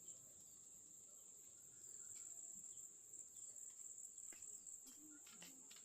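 Faint, steady high-pitched chirring of insects, with a few faint ticks near the end.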